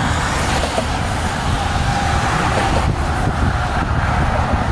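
Strong wind blowing across the microphone: a steady rushing with a heavy, fluttering low rumble.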